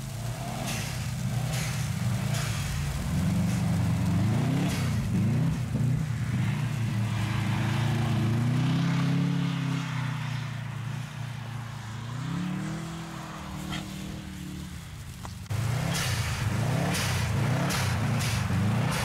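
Subaru Impreza GT's turbocharged flat-four engine revving up and down again and again as the car drifts on snow. Some sharp clicks are heard, and the sound gets suddenly louder about three-quarters of the way through.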